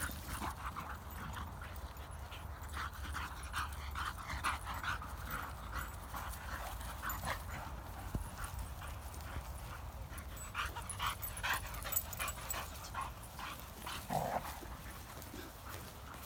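A dog making short, irregular, repeated sounds throughout.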